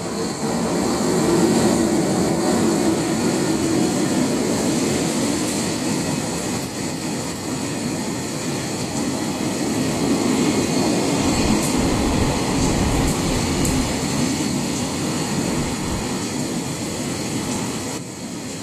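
Electric-locomotive freight train passing at speed, its wagons rumbling steadily over the rails, with a few sharp high clicks about halfway through.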